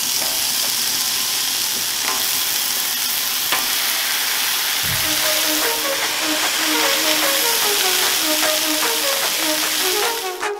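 Meat sizzling steadily on a hot, oiled Blackstone 28-inch flat-top griddle as slices of lunch meat and diced ham are laid on the steel. A simple tune of background music comes in about halfway.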